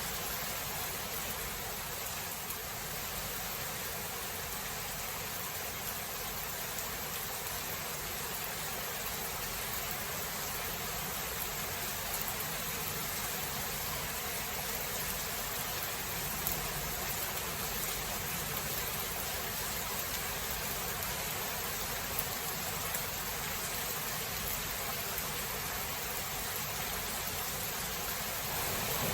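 Steady rain falling, an even hiss with a few faint drop ticks and no thunder.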